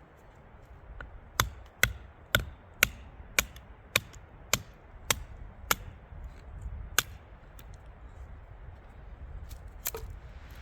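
A run of sharp, even strikes, about two a second for some four seconds, then two more single strikes after a pause.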